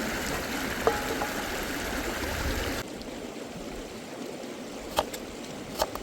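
Steady rush of a running stream. It drops abruptly to a quieter, thinner rush about halfway through, with a few sharp clicks about a second in and near the end.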